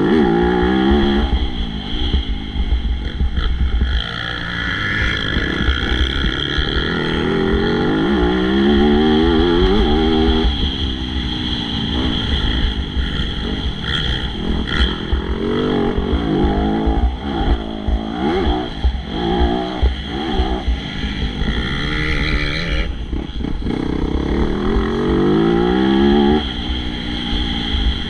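MX2 motocross bike engine revving hard and backing off again and again, its pitch rising with each burst of throttle and dropping between them, over a steady low rumble.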